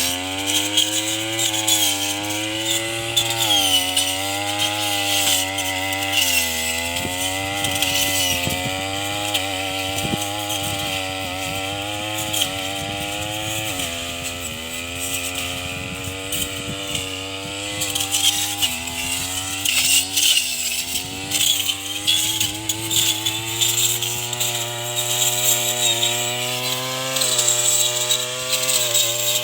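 Tanika brush cutter's small petrol engine running at high speed, its pitch sagging and recovering again and again as the blade takes load while cutting grass and corn stalks. Scattered sharp strikes of the blade against the stalks come through in the middle.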